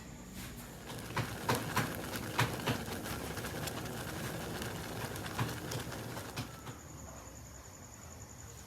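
Irregular sharp clicks and knocks for the first six seconds or so. Then a cricket's steady high trill comes in about three-quarters of the way through.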